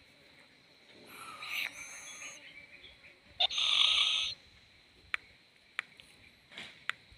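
Young owl calling: a rasping, hissing screech a second in, then a louder harsh screech in the middle lasting about a second, followed by a few sharp clicks.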